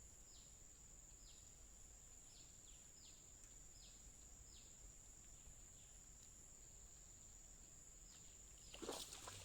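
Faint outdoor ambience: a steady, high-pitched insect drone, likely crickets or cicadas, with short falling chirps repeating about twice a second. A brief rustle or handling noise comes near the end.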